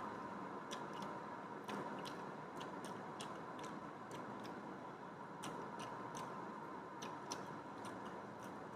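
A person eating rice and egg curry: faint chewing with small wet mouth clicks and smacks, irregular, about one or two a second.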